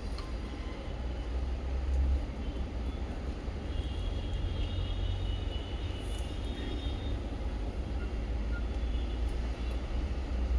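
A steady low rumble under a noise haze, with a few faint, high bird chirps about four to six seconds in.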